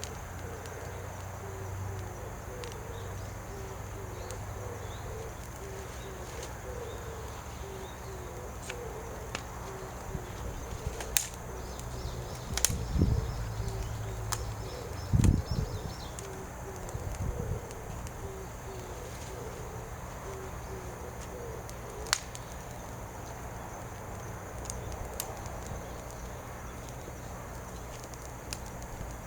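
Sharp snaps from a burning wood fire, a few times, over a steady run of short, low repeated notes.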